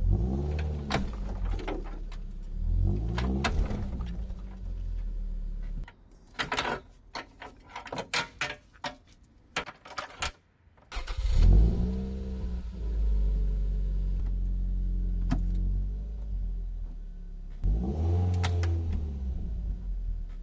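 Toyota MR2 engine revving in two surges, then several seconds of a heavy steel tow chain clinking and rattling as it is handled, then the engine running again and revving once more near the end. The revs are the car reversing against a chain anchored to a tree to pull its bent front frame straight.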